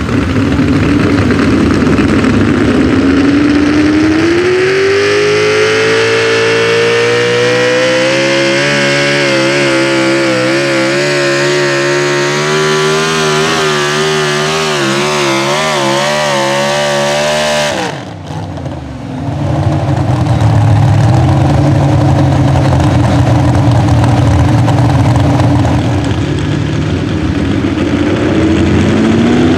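A Pro Stock four-wheel-drive pulling truck's engine at full throttle on a pull: the revs climb over the first several seconds, hold high with the pitch wavering, then drop away abruptly about eighteen seconds in as the driver lifts off. After that a lower, steadier engine sound runs on, and the revs start to rise again near the end.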